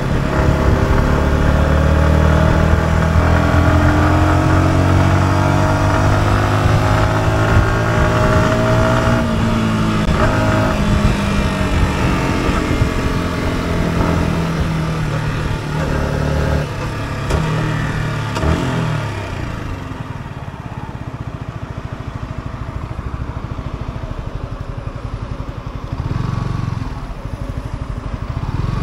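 Yamaha R125's 125 cc single-cylinder four-stroke engine pulling under acceleration, its pitch climbing for several seconds before falling as the throttle closes. About two-thirds of the way through it settles to a quieter, lower running as the bike slows, with a short throttle blip near the end.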